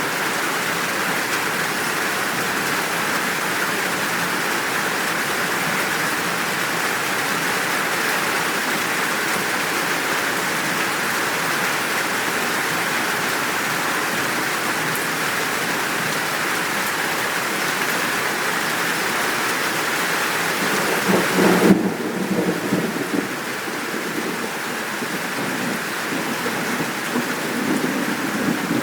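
Steady downpour of rain. About three-quarters of the way through, a sudden thunderclap comes and the rain hiss turns softer; low rolling thunder follows near the end.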